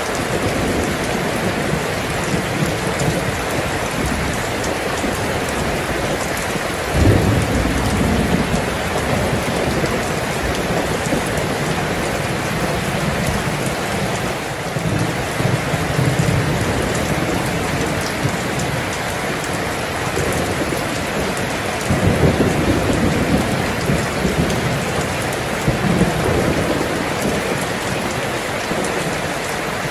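Steady, heavy rain hissing without a break, with low rolls of thunder: a sudden one about a quarter of the way in and more in the middle and toward the end.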